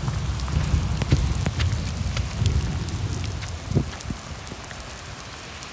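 Heavy rain falling on wet pavement, with scattered sharp ticks of single drops hitting close by. A low rumble lies under the rain for the first three seconds or so, then fades out.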